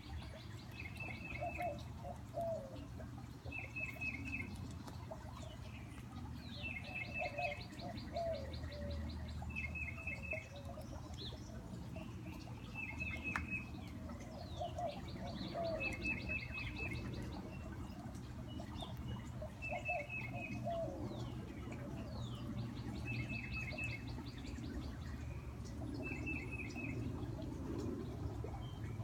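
Backyard songbirds singing, led by a titmouse repeating a short whistled phrase every two to three seconds. A higher buzzy trill comes in every few seconds, along with low slurred cooing notes.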